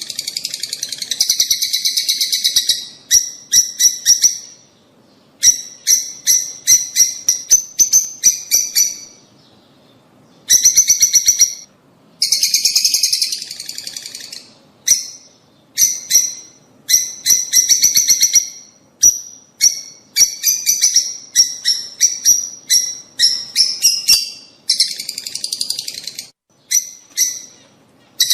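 Lovebirds chattering: rapid strings of shrill, high-pitched chirps in bursts of a second or two, broken by short pauses.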